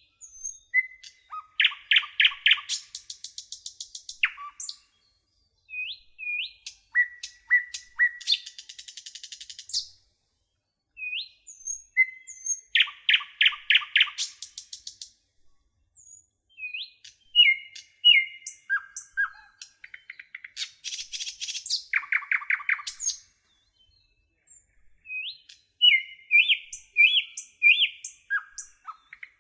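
A songbird singing varied phrases of chirps, upswept whistled notes and rapid trills, with brief pauses between phrases.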